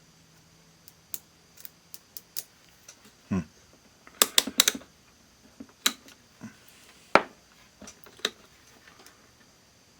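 Irregular sharp clicks and taps from handling an analog multimeter and its test leads while it is set to ohms, with a quick cluster of loud clicks about four seconds in and a duller knock just before.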